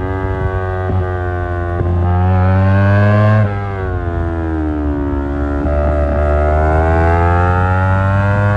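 Yamaha R25 parallel-twin engine through an Akrapovic exhaust, pulling hard under acceleration. Its pitch climbs steadily, drops sharply at a gear change about three and a half seconds in, then climbs again.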